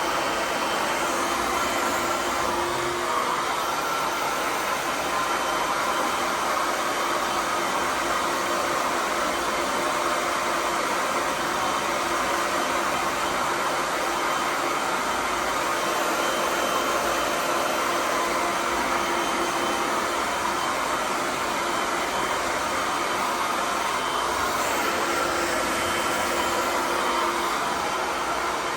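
Handheld hairdryer blowing steadily on long hair, an even rush of air with a faint steady motor hum underneath.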